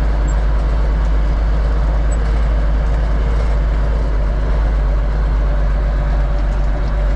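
Kenworth log truck's diesel engine running steadily under way, with a strong low drone.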